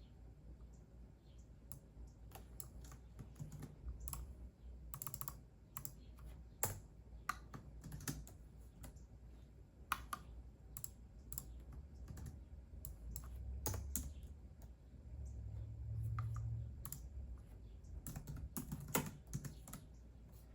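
Computer keyboard typing: irregular runs of keystroke clicks, now quick clusters, now single taps with short pauses between.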